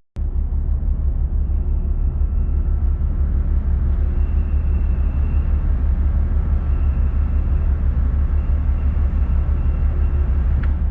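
Steady low rumble of a large ferry's engines heard on board, with a faint high whine coming and going.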